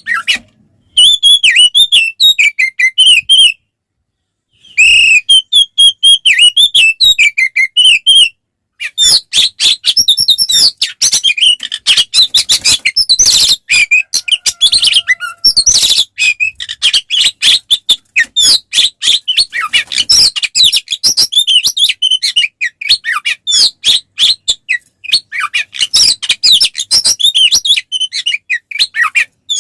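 An Oriental magpie-robin (kacer) singing loud, varied, full-volume 'ngeplong' song in its aggressive fighting mode: quick whistled phrases and fast chattering notes. There are short pauses about 4 and 8 seconds in, after which the song runs almost without break.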